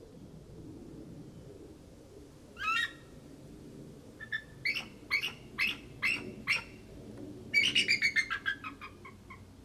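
Bald eagle calling: a single high call, then a string of short high chirps about two a second, then a louder, fast chatter of piping notes that falls in pitch.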